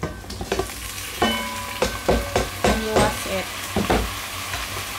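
Boiled chicken pieces tipped from a plastic container into a hot pot of frying garlic and onion, sizzling as they land. Over the first four seconds there are about nine sharp clanks against the pot, each with a brief metallic ring.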